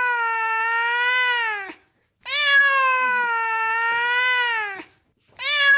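A domestic cat meowing insistently: long, drawn-out meows of about two and a half seconds each, one after another with short pauses between. One ends about two seconds in, the next runs through the middle, and a third begins near the end.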